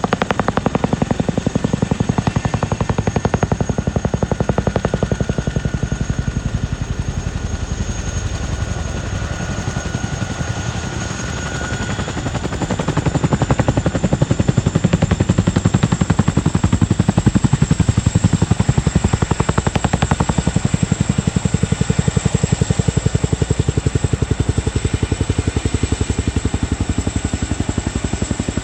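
Two Boeing CH-47F Chinook tandem-rotor helicopters running: the fast, even beat of the rotor blades with a thin, high turbine whine above it. The sound grows louder about halfway through.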